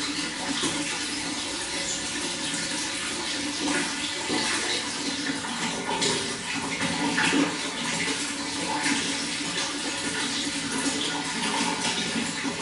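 Running water flowing and gurgling continuously, with small splashes throughout.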